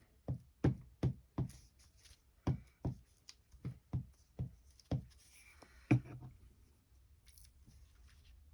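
A hand patting down freshly glued tea-bag paper on a notebook cover against a tabletop: about a dozen dull knocks, roughly two a second, with a short pause near two seconds in and the last and loudest about six seconds in. The paper is not sticking down well.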